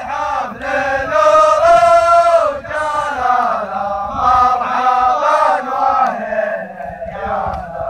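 A group of men chanting a zamil, a tribal welcome chant, in unison with long held notes.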